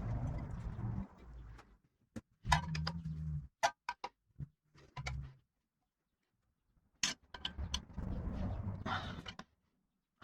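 Engine parts and tools being handled on a workbench: intermittent rustling and dull knocks with several sharp metallic clinks, the clearest about two and a half seconds in and again near seven seconds.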